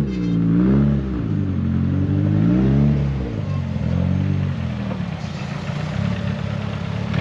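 Car engine accelerating and shifting: its pitch climbs and drops twice in the first three seconds, then settles into a steadier, lower drone.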